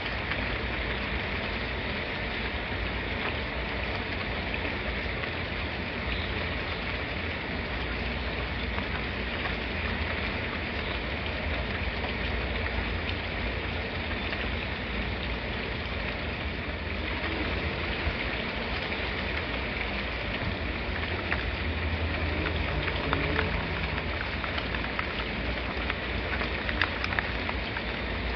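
Steady rain falling: a continuous even hiss with a low rumble beneath it and a few sharper drop taps near the end.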